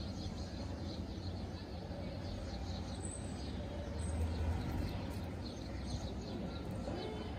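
Birds chirping in quick, repeated short notes over a steady low rumble of background noise.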